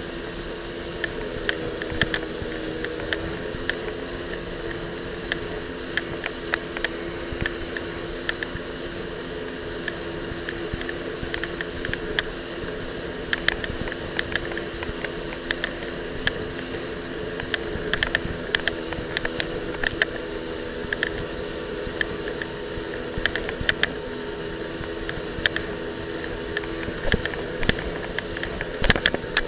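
Jet ski engine running steadily, heard through an action camera held loosely against the rider's life vest, with frequent sharp clicks and knocks over it.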